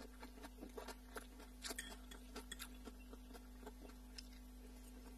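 Faint close-up eating sounds: a person chewing noodles and cabbage salad, with scattered small wet clicks and smacks. A steady low hum runs underneath.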